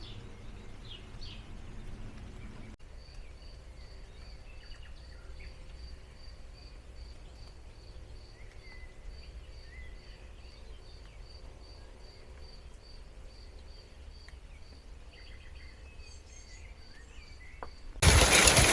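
Countryside ambience: a soft, even high chirp repeating about twice a second, with scattered bird calls. Near the end a sudden loud, rushing noise cuts in.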